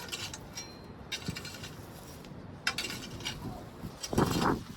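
Patio pavers clinking and knocking against each other as they are handled and set down, with a louder, longer scrape or thud a little after four seconds in.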